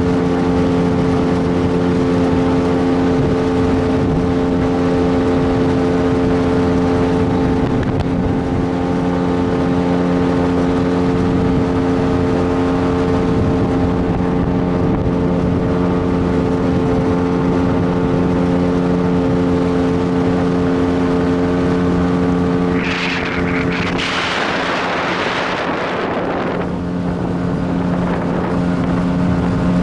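Motorboat engine running at a steady speed, with a rushing hiss for a few seconds near the end.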